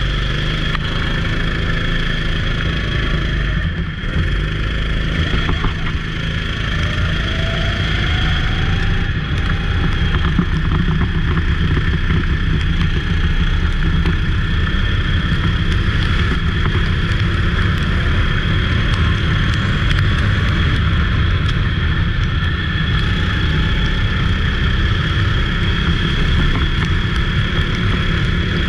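Go-kart engine running steadily under racing, getting a little louder about a third of the way in.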